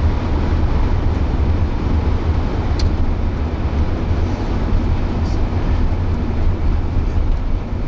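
Steady road noise of a car driving, heard from inside the cabin: a low rumble of engine and tyres with an even hiss over it.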